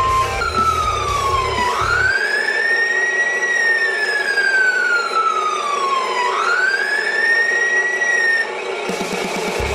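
Wail siren from an RC Scania fire truck model's sound module: a single tone sweeping slowly up and down in pitch, two full rises, then cutting off suddenly near the end.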